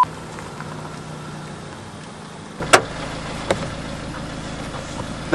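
A steady low hum, then about halfway through a car engine idling, with a sharp click and a lighter click a moment later.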